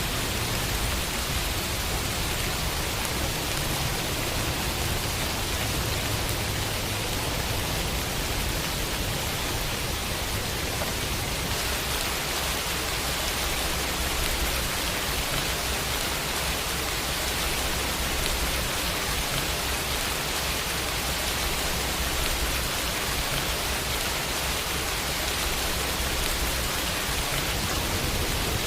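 Steady rain falling and pattering on a window, an even unbroken hiss with no distinct drops or thunder standing out.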